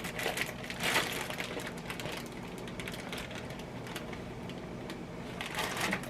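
Quick clicks, taps and clatter of a knife and kitchen utensils as a piece of ham is cut, busiest at the start and again near the end.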